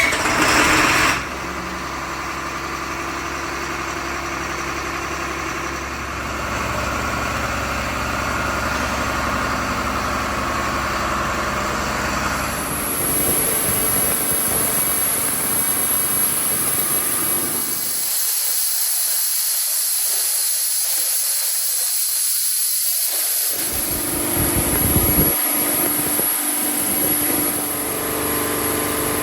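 Fire pump set running under test: steady machine noise with a hiss over it. Its low rumble drops away for a few seconds past the middle, then returns.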